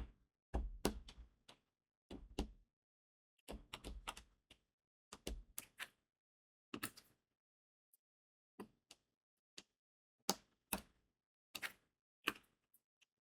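Crystal diamond-painting drills being pressed one by one onto the sticky canvas with a drill pen: small, sharp clicks and taps in uneven little clusters, separated by short pauses.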